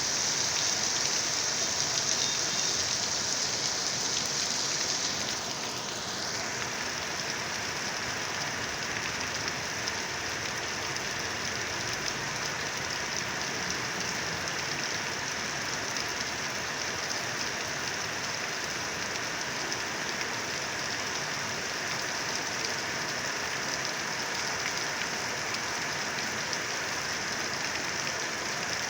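Heavy rain pouring down in a steady hiss, a little louder for the first five seconds and then even.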